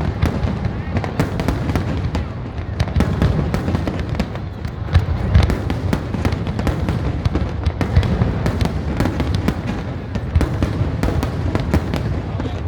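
Fireworks display: a continuous barrage of sharp bangs over a deep rumble, with no pause.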